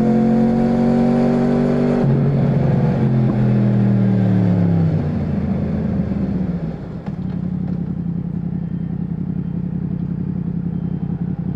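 Yamaha MT-10's crossplane inline-four engine under way, rising in pitch, dropping suddenly about two seconds in at a gear change and rising again. Just after the middle it eases off and falls, then holds a steady low note.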